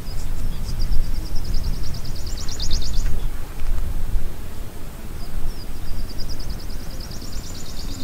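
A small songbird sings twice, each phrase a run of high, quick notes that speeds up and grows louder over about three seconds. Under it runs a steady low rumble of outdoor noise.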